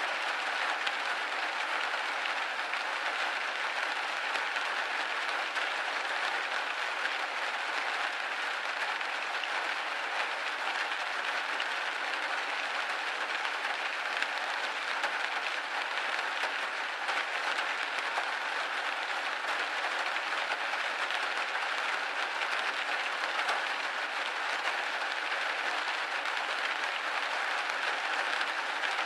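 Steady rain pattering on a window pane, an even hiss of many small drops with no single hit standing out.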